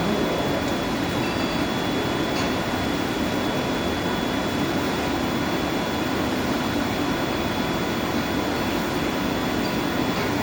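Steady mechanical noise of boiler-house equipment running, even and unbroken, with a faint constant high whine above it.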